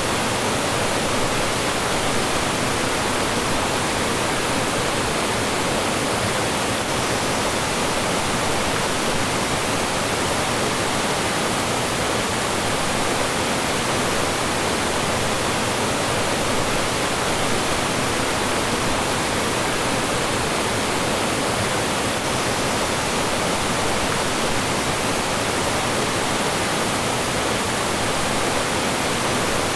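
Mountain stream rushing over rocks in small falls, a steady, even roar of water with no change.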